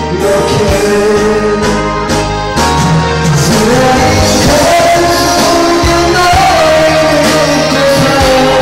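Singing over a karaoke backing track, with a melodic vocal line above steady bass and drums.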